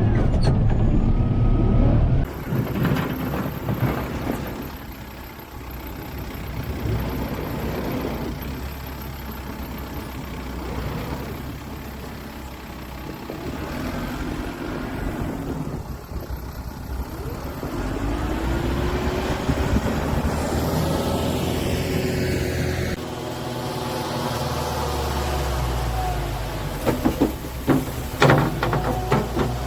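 Kubota M7060 tractor's diesel engine running, with a rising whine about two-thirds of the way through and a few sharp knocks near the end. The sound changes abruptly twice.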